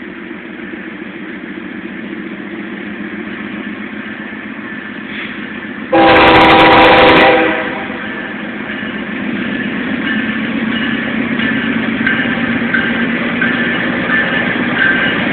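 Approaching train: a locomotive horn sounds one loud chord-like blast about halfway through, lasting a second and a half. Afterwards the rumble of the train grows louder, with high squeals from the wheels and rails.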